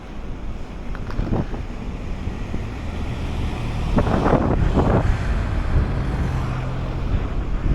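Wind rumbling and buffeting against a body-worn camera's microphone outdoors, with two brief louder noises about four and five seconds in.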